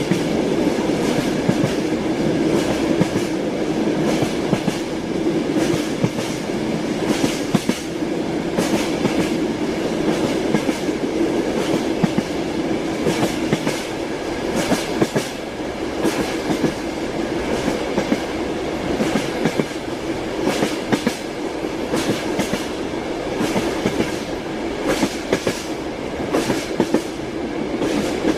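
Train wheels clacking over rail joints, heard from inside a moving railway carriage: a steady rumble with irregular knocks throughout.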